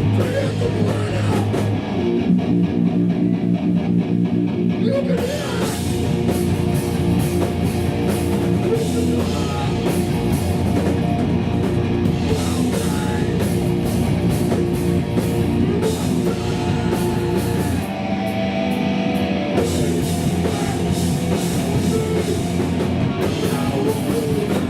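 Hardcore punk band playing live: distorted electric guitars and a pounding drum kit, loud and dense throughout.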